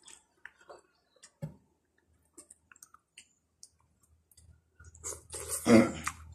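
Close-up eating sounds: chewing and small wet clicks of the mouth and fingers as grilled fish is picked apart and eaten by hand. Near the end a low steady hum starts, and a single loud noise comes about a second later.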